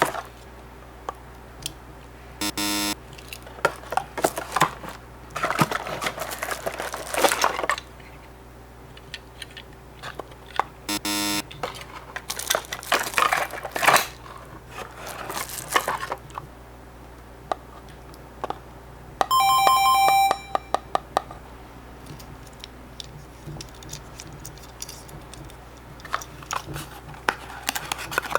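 Tomica die-cast minicars and their small cardboard boxes being handled: irregular rustling, scraping and light clicks as the cars are slid back into the boxes. Short electronic beeping tones cut in three times, the longest and loudest near the two-thirds mark.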